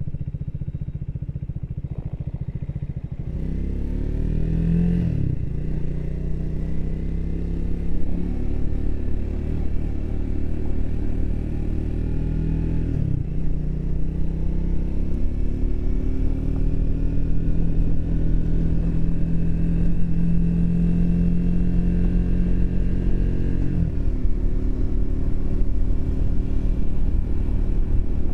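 Triumph Speed 400's single-cylinder engine runs low and even, then pulls away about three seconds in. It rises in pitch through the gears, with three upshifts where the note drops suddenly, and then holds a steady cruise.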